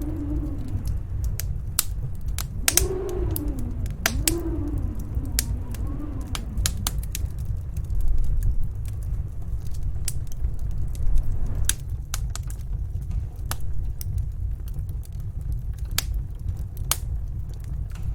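Wood fire crackling with scattered sharp pops over the low, steady rumble of snowstorm wind. During the first six seconds or so the wind also howls in wavering tones that rise and fall.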